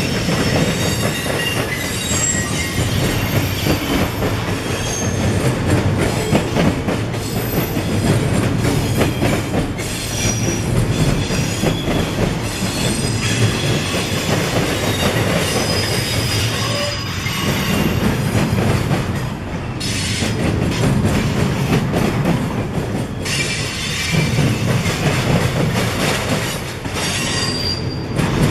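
Freight train cars rolling past, with a steady rumble and clatter of wheels over the rails. Short high-pitched wheel squeals come and go throughout.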